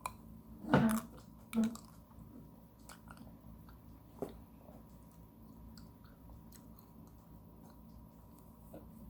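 Biting and chewing an ice cream bar with crunchy cookie bits in it: two loud crunchy bites about a second apart near the start, then quiet chewing with small clicks.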